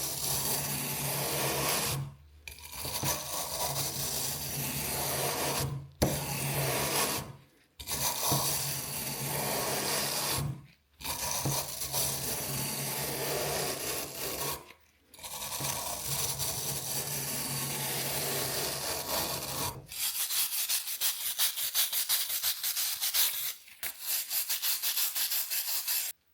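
Scraping and rubbing on an old rusty iron horseshoe as rust is worked off, in short takes with abrupt cuts between them. In the last few seconds it changes to quick, evenly repeated back-and-forth strokes.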